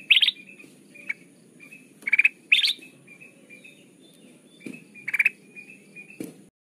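Kutilang emas bulbul singing: short bursts of fast, repeated bright chirps, a few seconds apart, with softer chirping notes in between. A faint steady high-pitched whine runs beneath.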